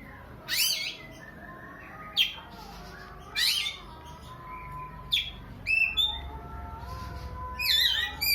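Oriental magpie-robin (kacer) giving about half a dozen short, loud calls that sweep up and down in pitch, a second or so apart: the 'sobbing' call that sounds like a child crying.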